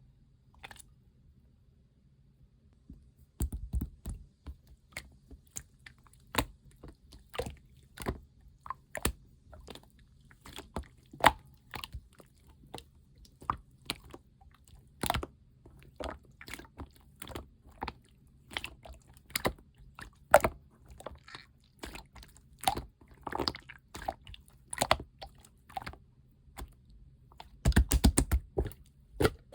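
Clear teal slime being pressed and poked by hand, giving irregular sharp pops and clicks from trapped air. The pops start about three seconds in and come thick and fast near the end.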